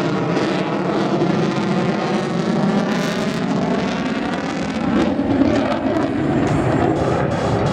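Jet noise from the F-22 Raptor's twin F119 afterburning turbofans, a steady loud roar with a slowly shifting, phasing whoosh as the jet manoeuvres overhead.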